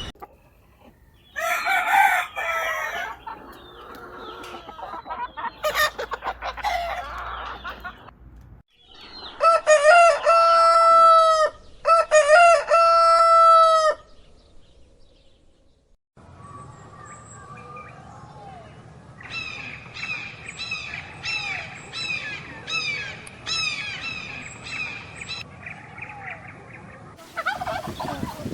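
Domestic chickens: a rooster crows twice, long and loud, in the middle, with clucking and other shorter chicken calls before and after, broken by sudden cuts. Near the end comes a long string of short repeated calls.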